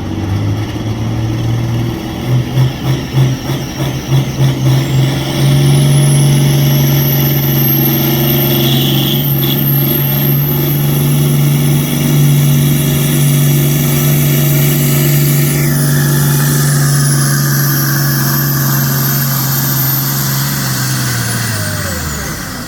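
A pulling tractor's engine at full throttle making a pull. It surges unevenly for the first few seconds, then runs steady and loud with a high turbocharger whistle over it, and winds down near the end as the pull finishes.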